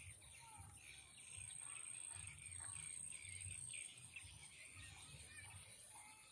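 Faint outdoor ambience: scattered distant bird calls over a steady high-pitched whine, with a low rumble underneath.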